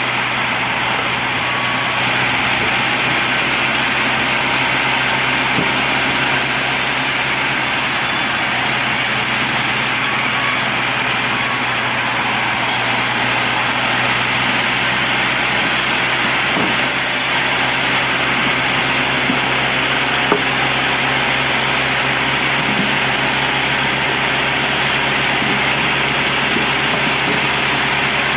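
Sawmill band saw running steadily, a constant machine hum with a dense hiss over it.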